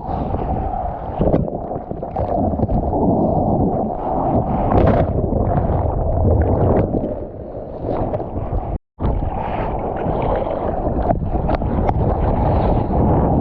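Wind buffeting the microphone over the wash of breaking surf: a loud, muffled rumble. It cuts out completely for a moment about nine seconds in.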